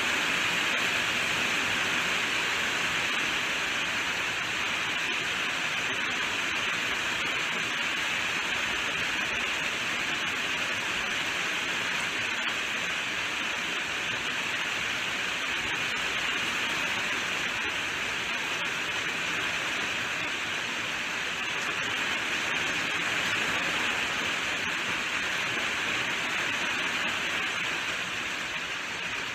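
Steady rainfall: an even hiss of rain, strongest in the upper-middle range, with no distinct drops or thunder standing out.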